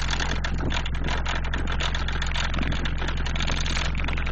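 Bass test tone at 20 Hz played through four Digital Designs 500-series 15-inch subwoofers, driven by a Power Acoustik BAMF4000.1D amplifier: a steady, loud low drone with a harsh buzz layered over it.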